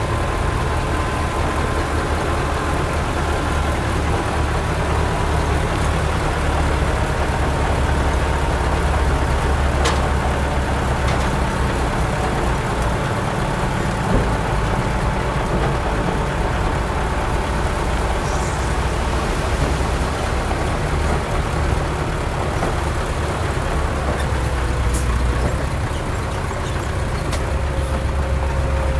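Heavy diesel earthmoving machinery running steadily under load: a deep engine rumble with a faint whine over it and a few sharp knocks.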